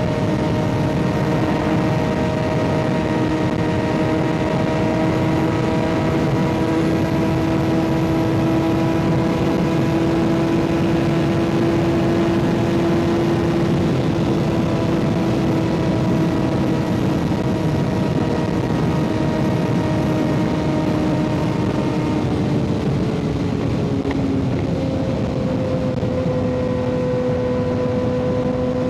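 Kawasaki ZX-6R inline-four with an M4 aftermarket exhaust running at a steady cruise over a rush of wind noise, its note holding level then dropping lower about 23 seconds in.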